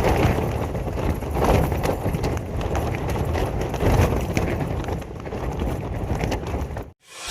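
Strong gusting wind battering a tent, the fabric flapping and knocking rapidly. It cuts off abruptly near the end.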